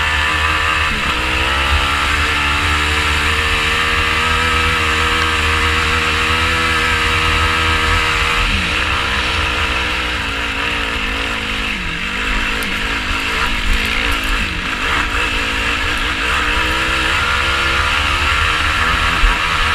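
Yamaha YFZ450R sport quad's single-cylinder four-stroke engine running under riding load. It holds a fairly steady pitch for several seconds, then rises and falls repeatedly as the throttle is worked. A constant low rumble runs underneath.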